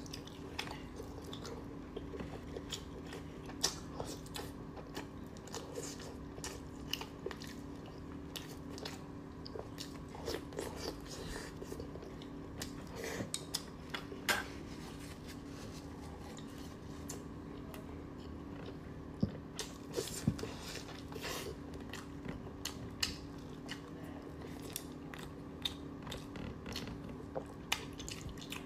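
Close-miked chewing of braised chicken offal: wet mouth smacks and many short clicks, with the odd light tap of chopsticks against the bowl, over a steady low hum.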